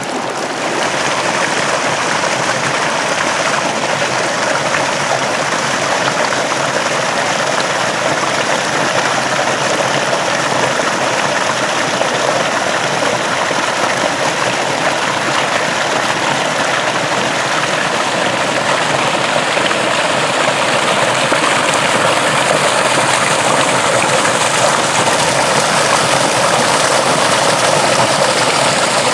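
Water rushing steadily along an irrigation ditch.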